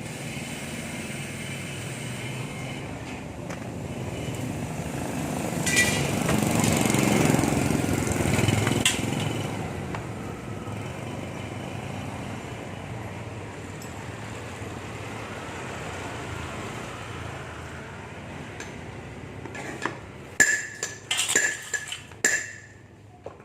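Metal parts of a submersible pump being handled and fitted, over a steady mechanical noise that swells for a few seconds about a third of the way in. Several sharp metal clinks come near the end.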